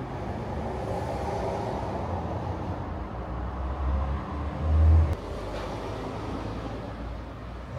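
Steady low outdoor rumble, like distant traffic, with a short, loud low surge about four and a half seconds in.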